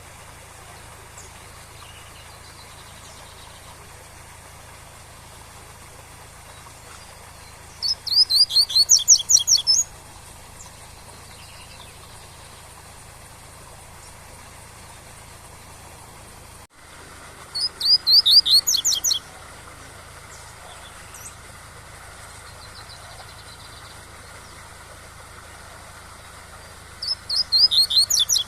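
Double-collared seedeater (coleiro) singing its tui-tui song: three bursts of about two seconds each, quick runs of repeated high notes, roughly ten seconds apart, the last cut short at the end. Under them a steady waterfall rush.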